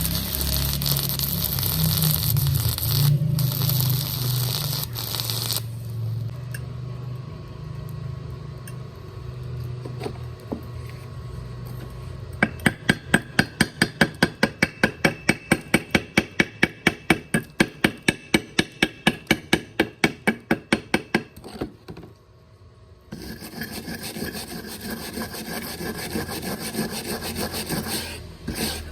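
Stick-welding arc crackling and hissing for the first five seconds or so. After a quieter spell come about nine seconds of quick, even scraping strokes, about four a second, rubbing over the metal. Near the end there is another steady hiss.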